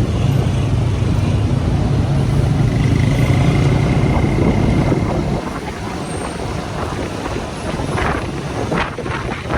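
Motorcycle riding along, its engine running steadily under wind and road noise. About halfway through the engine note drops away and the sound gets quieter, as when the throttle is eased off.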